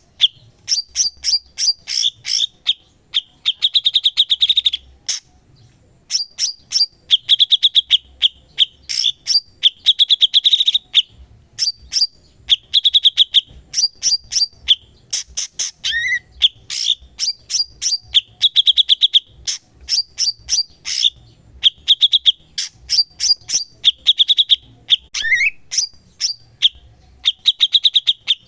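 A cucak cungkok, a bulbul, singing non-stop: rapid sharp chips and clicks mixed with fast buzzy trills, with a brief pause about five seconds in.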